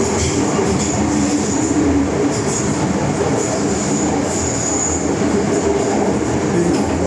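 MTR M-train electric multiple unit running at speed, heard from inside the car: a steady rumble of wheels and motors, with a high-pitched wheel squeal that comes and goes several times.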